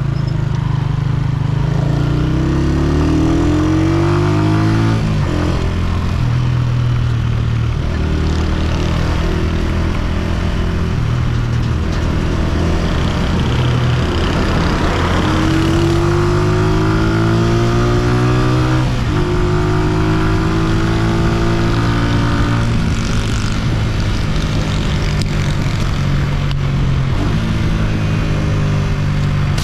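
Honda CG125's single-cylinder four-stroke engine under way, pulling up through the gears. Its pitch climbs and then drops at each gear change, about five seconds in and again near nineteen seconds, with wind and road noise throughout.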